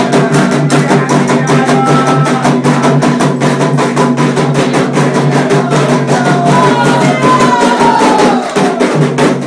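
Candomblé ritual music: drums beating a quick, even rhythm with struck percussion, under sustained melodic lines.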